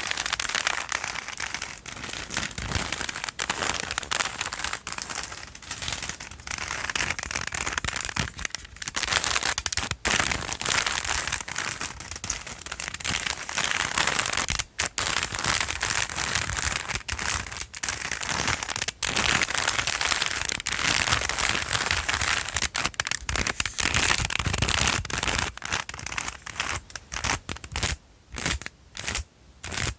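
Crinkly material being handled and scrunched close to the microphone, a dense continuous crackling full of tiny clicks. Near the end it breaks up into separate quick taps and rustles with short pauses between them.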